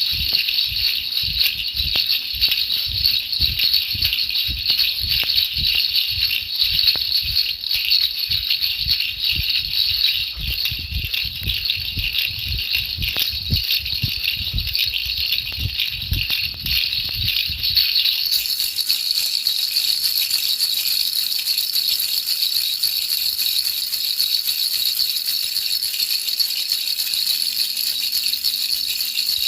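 Baby rattle shaken continuously, a steady dense rattling. Low thumps under it stop about eighteen seconds in, and the rattling carries on alone.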